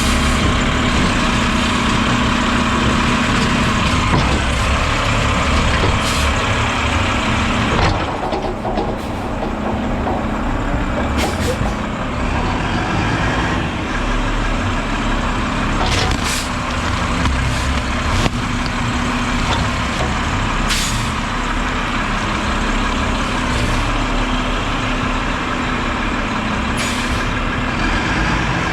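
Automated garbage truck running steadily while packing its hopper, its engine and hydraulic packer making a continuous low drone. The drone changes and dips about eight seconds in, and brief sharp sounds come here and there.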